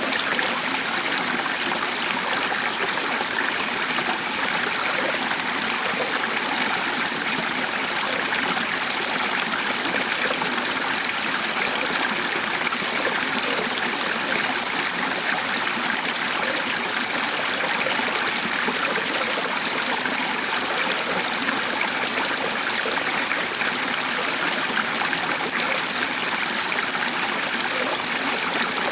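A stream running steadily, an even, unbroken rush of flowing water.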